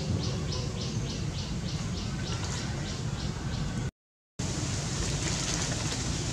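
A bird chirping in a fast, even series of short high notes, about four a second, over a steady low rumble. The chirps stop a little after three seconds in. The sound cuts out for half a second just before four seconds in.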